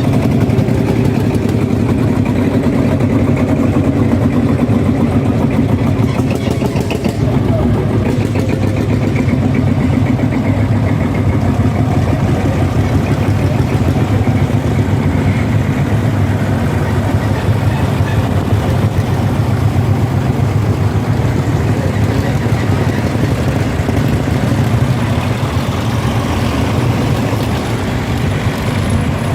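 Tractor engine running steadily at an even speed, a deep drone that holds level throughout.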